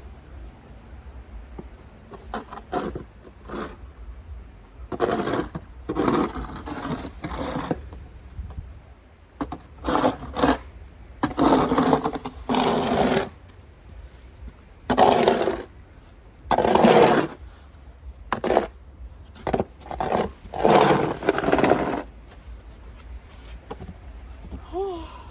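Snow shovel scraping through snow on pavement in repeated strokes, each about half a second to a second long, with short pauses between them. A steady low rumble runs underneath.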